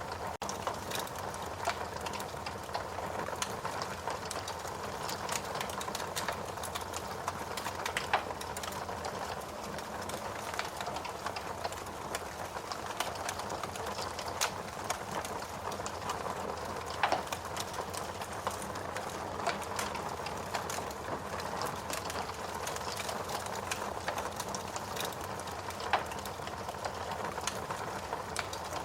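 Fire burning in a fireplace, crackling steadily with many small ticks and a few louder pops now and then.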